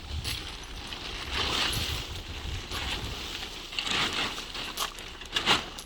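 Scraping and rustling handling noises, then two sharp knocks near the end, over a low rumble.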